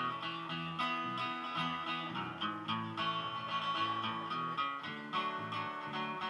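Acoustic guitar picking and strumming a bluegrass instrumental break between verses, with no singing.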